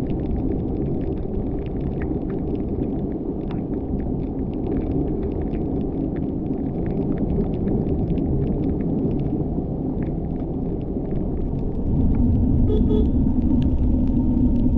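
Car driving on a wet mountain road: steady rumble of engine and tyres with scattered light ticks, growing louder about twelve seconds in.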